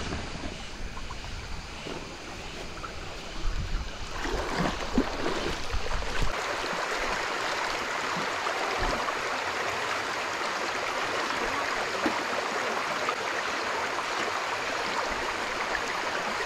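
Shallow stream water running steadily. In the first six seconds there is a low rumble and a few louder knocks; after that the water rushes evenly.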